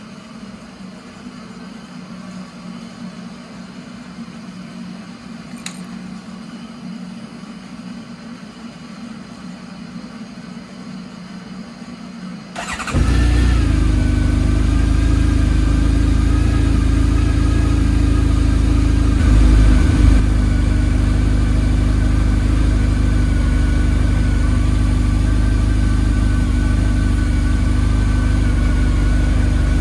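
Honda CB1300 Super Four's inline-four engine firing up on the new battery about twelve seconds in, then settling into a steady idle with a brief blip around twenty seconds. Before it starts there is only a faint steady hum.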